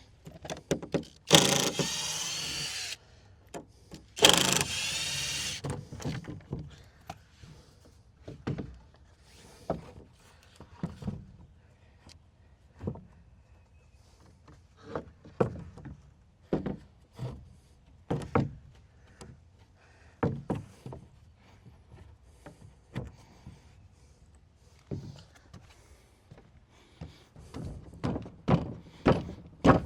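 A power tool runs in two bursts of about two seconds each early on, followed by a long run of scattered wooden knocks and thunks as lumber is handled and set in place, with a cluster of knocks near the end.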